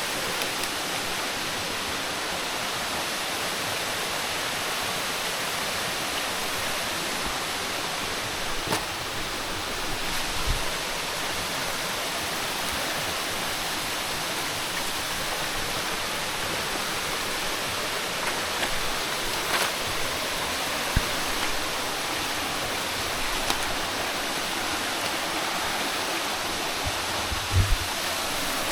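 Steady rush of running water, with a few short knocks here and there, the loudest near the end.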